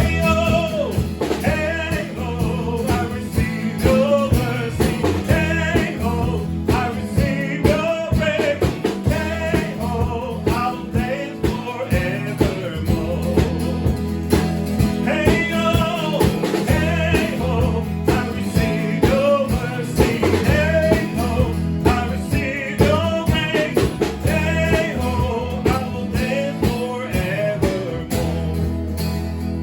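Contemporary worship band playing: a voice singing over guitar and bass.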